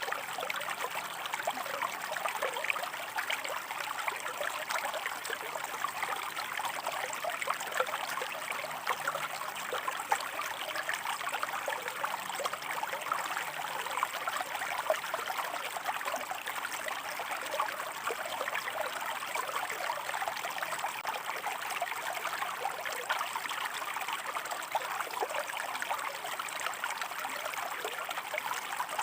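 Shallow stream water running and trickling over rocks, a steady babbling flow with many small splashes.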